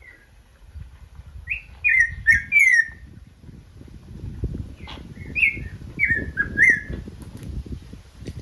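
Bird calls: short, clear whistled notes, each sliding downward, in quick groups of two or three that come twice, over a low rumbling background.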